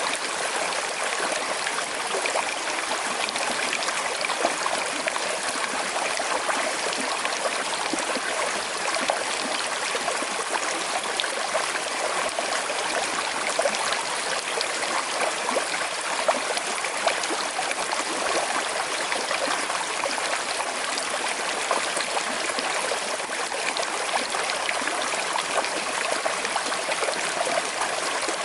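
Small river with a slight current, water flowing and trickling steadily.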